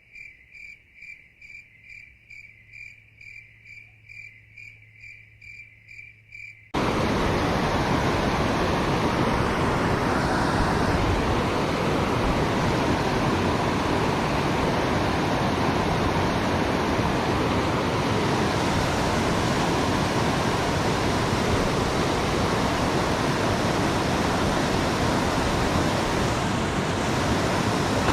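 A cricket chirping in an even rhythm, about two and a half chirps a second. About seven seconds in it cuts off suddenly to the loud, steady rush of a rain-swollen river waterfall.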